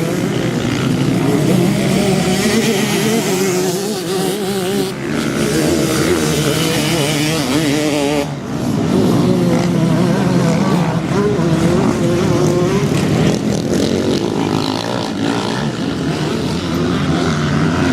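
Motocross bike engine running hard while ridden, its pitch rising and falling repeatedly with the throttle. There is a brief drop about 8 seconds in.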